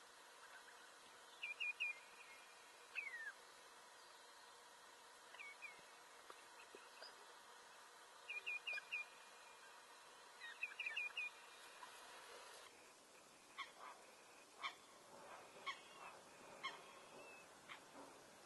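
Small birds calling over faint outdoor background: quick runs of three high chirps several times in the first half. After the background changes about 13 seconds in, short sharp single notes come roughly once a second.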